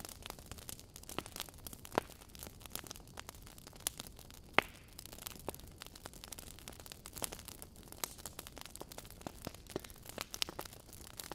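Logs burning in a fireplace, crackling and popping irregularly over a low hiss; the sharpest pops come about two seconds in and a little past halfway through the first half.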